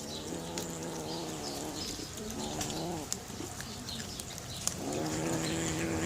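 Cats growling over their food in long, wavering growls, with small sharp clicks of chewing and crunching between them.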